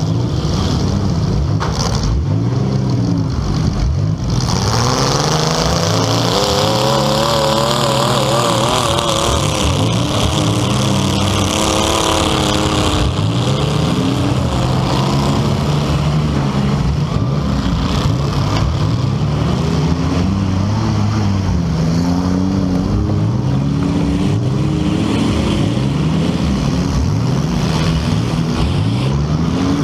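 Several compact demolition-derby car engines revving up and down at the same time, their pitches rising and falling over one another.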